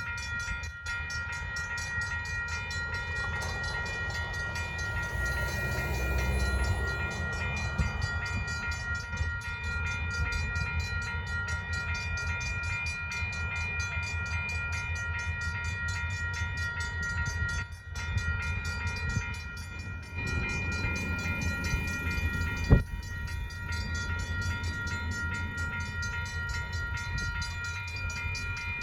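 Railroad grade-crossing bell ringing steadily and rapidly, over the low rumble of diesel switcher locomotives, which swells about six seconds in. A single sharp knock comes near the end.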